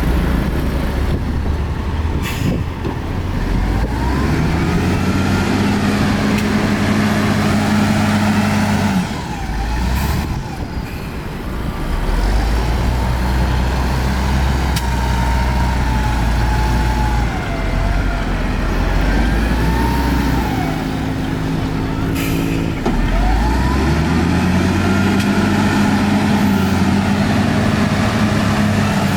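Heavy diesel earthmoving machinery working under load. The engine note climbs and holds for a few seconds, drops, then climbs and holds again near the end, with a thin wavering whine above it.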